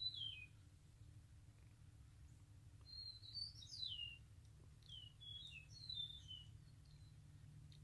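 A songbird chirping faintly in three short phrases of quick falling notes, over a faint steady low hum.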